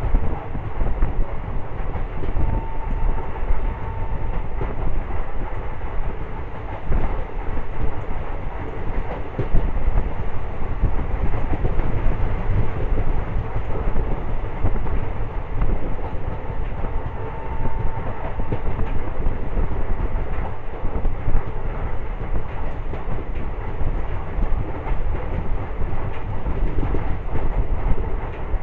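Indian Railways express train running along the line: a steady low rumble, thick with rapid clicks from the wheels and rails, and a faint high whine twice, briefly.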